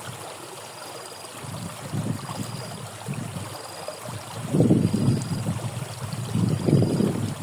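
Water flowing in a ditch, with low rumbling surges of sloshing that grow louder about four and a half seconds in. A faint short high beep repeats about once a second throughout.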